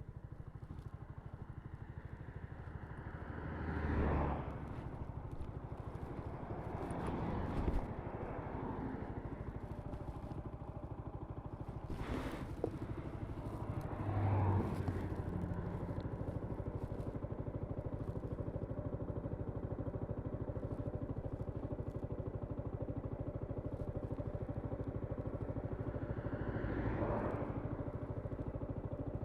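2022 Zontes G1 125 Scrambler's single-cylinder engine running steadily, with brief rises in revs about four seconds in, around seven and fourteen seconds, and near the end. A single sharp click comes about twelve seconds in.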